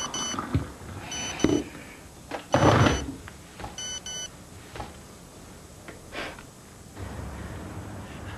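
Electronic alarm beeping in pairs, four double beeps about a second and a half apart, with a louder clatter among them about two and a half seconds in; later only faint knocks and a low hum.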